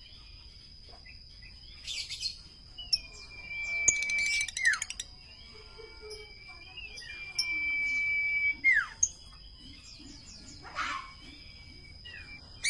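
Common iora singing: twice a long, level whistle held for over a second that ends in a sharp downward slur, between short chirps and a couple of brief raspy notes. A steady high-pitched tone runs underneath.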